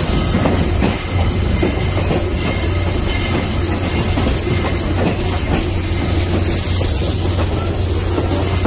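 A moving railroad passenger car heard from an open window: a steady rumble with the wheels clattering over the rail joints.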